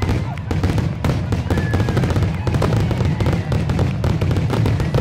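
Fireworks display going off: a rapid, continuous series of bangs and crackles over a deep rumble.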